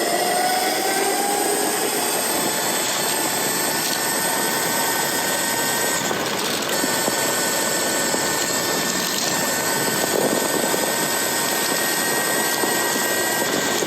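Electric motor of a Lightning Rods-driven e-bike whining under power at speed over a steady rush of wind and tyre noise. The whine climbs in pitch about a second in, then holds steady.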